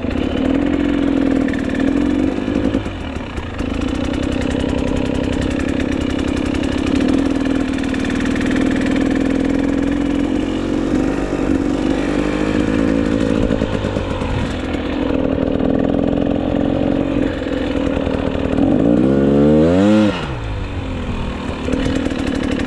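GasGas EC300 two-stroke dirt bike engine running under way at a steady pitch. About nineteen seconds in it revs sharply higher, then drops off suddenly.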